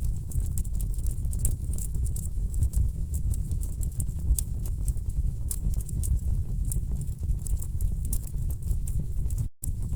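Wood fire burning in a fireplace, crackling with frequent sharp pops and snaps over a low rumble of the flames. The sound cuts out for a split second near the end.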